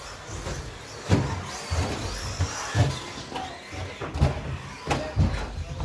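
1/10-scale electric RC stadium trucks racing, their 13.5T brushless motors whining up and down in pitch. Repeated sharp thumps and knocks come from trucks on the track, the loudest about a second in and near the end.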